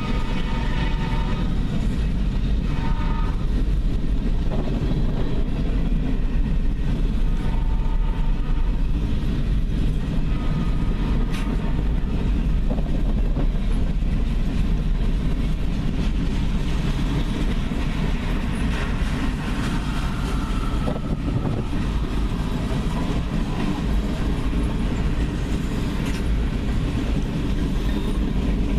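Freight train passing with a locomotive's five-chime K5HL air horn sounding in several short blasts during the first dozen seconds. A steady heavy rumble of the diesel locomotives and rolling rail cars runs under the horn, heard from inside a car.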